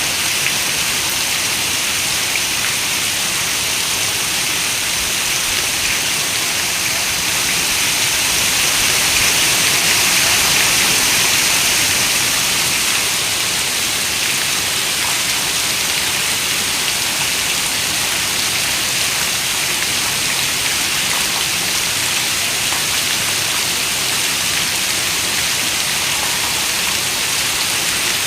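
Heavy rain falling steadily, a dense, even hiss of countless drops. It swells a little louder about eight to twelve seconds in, then settles back.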